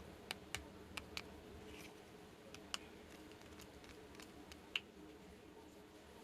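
Light, irregular clicks and taps of small plastic toy pieces being handled and set down, about half a dozen in all, the sharpest near the end.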